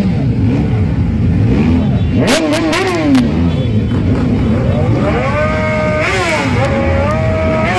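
Several motorcycle and car engines running and revving over each other, their pitch repeatedly rising and falling.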